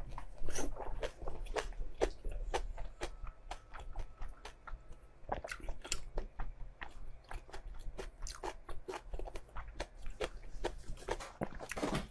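Close-miked eating of braised meat: biting and chewing, heard as an irregular run of sharp, crunchy mouth clicks, several a second.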